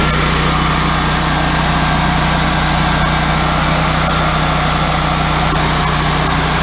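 Wood-Mizer LT40 hydraulic sawmill running steadily, its engine holding an even pitch while the band blade cuts through a log.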